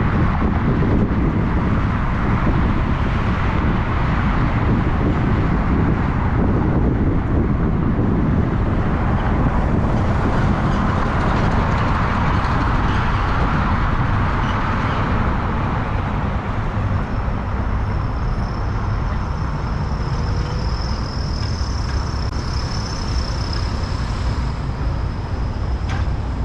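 Steady road noise of a car driving, even throughout, with a faint thin high whine that comes in past the middle and fades near the end.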